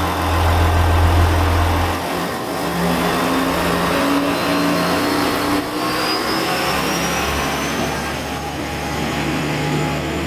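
KiHa 40 series diesel railcar's engine running, with a heavy low drone that drops back about two seconds in and a faint high whine rising steadily in pitch through the second half.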